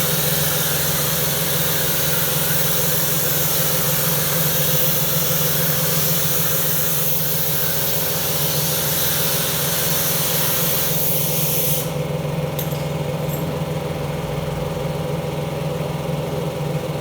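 Pressure washer spraying with a steady machine hum beneath; the spray hiss cuts off suddenly about twelve seconds in while the hum carries on.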